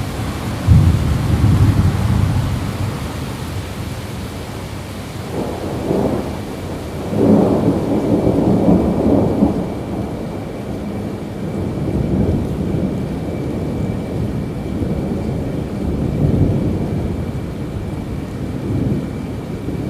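Thunderstorm: steady rain with rolling thunder. A rumble starts sharply about a second in, and a longer, louder one comes from about seven to nine and a half seconds, with fainter rumbles after.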